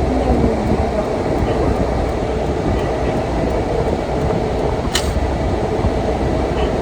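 Steady rumble of a moving car's engine and tyres heard from inside the cabin, with one sharp click about five seconds in.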